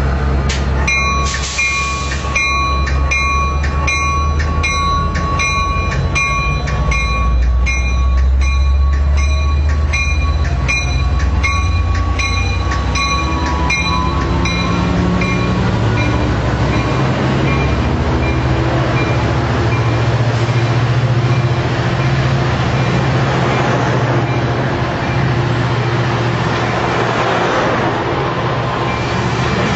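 Amtrak Surfliner F59PHI diesel locomotive pulling out of the station, its engine running hard under load. The locomotive bell rings about two to three strikes a second and stops about halfway through, and then the bilevel passenger cars roll past with steady wheel and rail noise.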